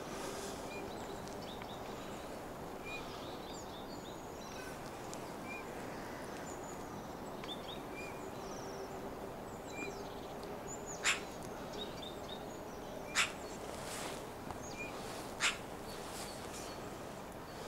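Small birds chirping with short, faint high calls over a steady background noise, with three louder sharp calls about two seconds apart in the second half.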